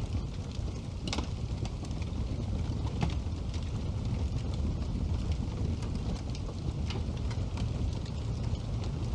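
Wood fire burning in a fireplace: a steady low rushing with scattered crackles and pops, the sharpest about a second in.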